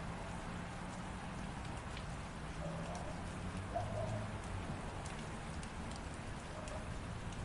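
Light rain falling steadily, with scattered drop ticks over a low steady hum.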